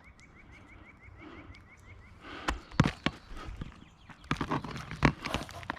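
Hammer blows driving roofing nails through an asphalt shingle: a run of sharp, irregular knocks that starts about halfway through.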